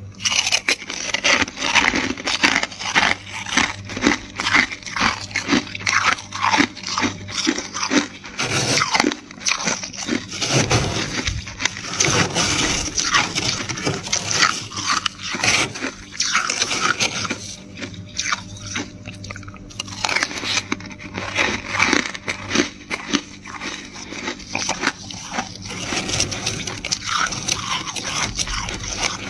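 Flaky freezer frost crunching over and over in quick, irregular succession, close to the microphone.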